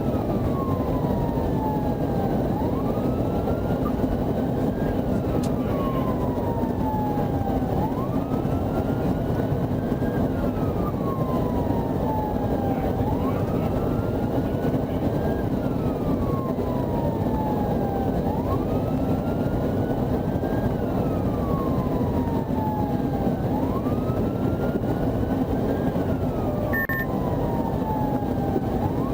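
Police car siren on wail, sweeping up quickly and falling slowly about once every five seconds, over a steady rumble of road and engine noise.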